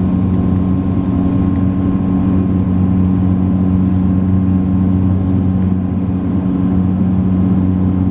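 Saab 340B cabin drone from its twin General Electric CT7 turboprops: a steady low hum with a thin steady tone above it, unchanging throughout.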